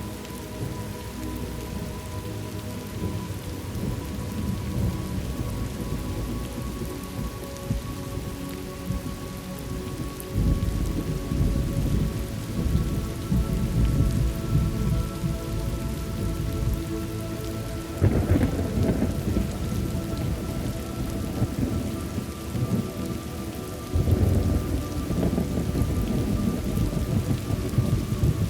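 Thunderstorm ambience: steady heavy rain with rolling thunder, swelling about ten seconds in, a sharper crash about eighteen seconds in and another swell about twenty-four seconds in. Faint held tones sit underneath.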